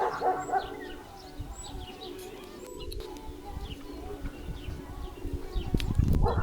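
Domestic pigeons cooing, with small birds chirping in brief high notes and gusty wind buffeting the microphone.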